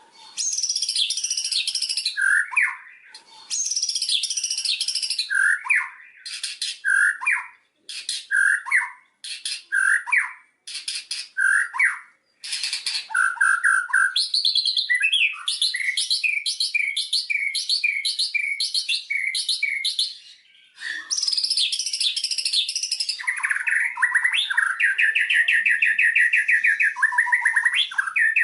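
White-rumped shama (murai batu) singing a long, varied song. Loud low whistles alternate with rapid high chattering phrases, a run of repeated notes in the middle, and a fast trill near the end.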